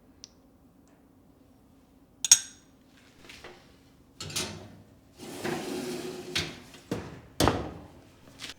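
Dishes being handled: a sharp ringing clink about two seconds in, then a run of knocks and clatter with a brief scraping stretch, and a few more knocks near the end.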